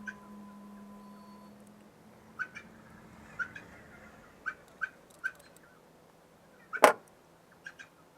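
A low hum fading away in the first second or two, then a scattering of light clicks and one much louder sharp knock about seven seconds in, from tools and furnace parts being handled during a hot surface igniter repair.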